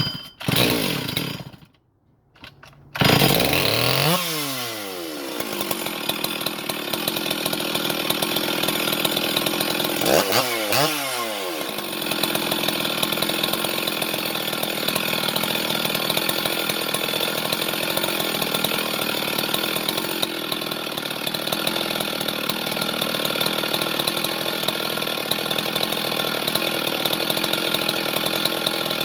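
Stihl 044 chainsaw's two-stroke engine cold-started: a couple of brief sputters, then it fires about three seconds in, revs high and drops to idle. Around ten seconds in there is one quick rev up and down, then it idles steadily.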